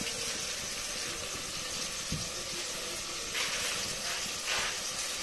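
Masala sizzling in a cooking pot over the fire, a steady hiss that swells a few times in the second half.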